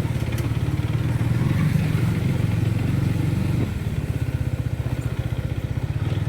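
Motorcycle engine running under way with a steady, fast pulsing beat. It grows louder for a couple of seconds, then drops back suddenly about three and a half seconds in, as the throttle eases off.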